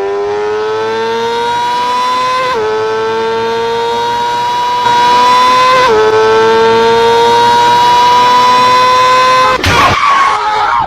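A high-revving engine accelerating, its pitch climbing steadily and dropping back abruptly twice, like gear changes. The engine sound gives way to a loud, noisy jumble near the end.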